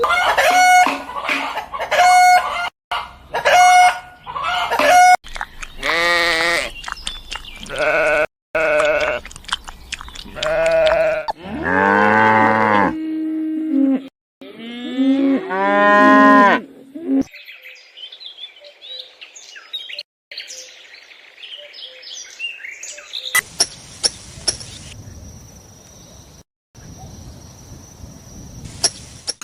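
Bleating livestock: a string of separate wavering calls through the first half or so, followed by fainter, higher-pitched sounds.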